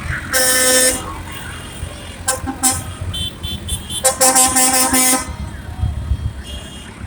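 Tractor horns sounding over the low rumble of running tractor engines. There is a blast of about a second at the start, then a few short toots and a higher-pitched horn, and another blast of about a second about four seconds in.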